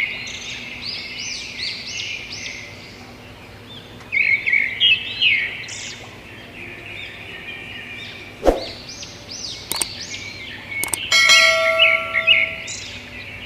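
A chorus of songbirds chirping in quick, repeated arched notes, in two busy bursts with a thinner stretch between. Near the end comes a few sharp clicks, then a ringing, bell-like tone lasting about a second.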